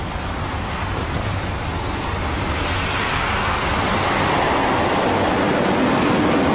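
Rocket Lab Electron's first stage at liftoff, its nine sea-level Rutherford engines firing: a continuous rushing noise of rocket exhaust that slowly grows louder.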